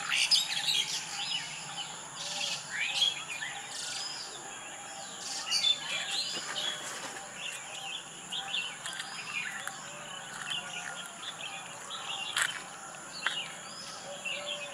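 Wild birds chirping and calling, many short chirps overlapping, over a steady high-pitched drone, with a few sharp clicks.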